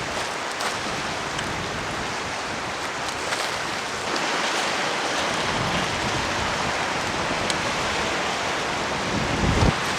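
Steady rain falling, an even hiss, with a brief low thump near the end.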